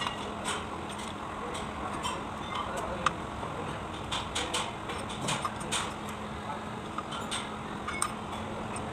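Hand tools and metal engine parts clinking and tapping irregularly over a steady background hiss and faint hum, as work goes on on a tractor engine under repair.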